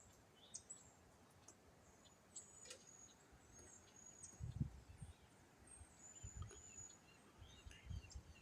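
Faint outdoor ambience: thin, high bird chirps on and off, with a few soft low gusts of wind buffeting the microphone, the strongest about halfway through and again near the end.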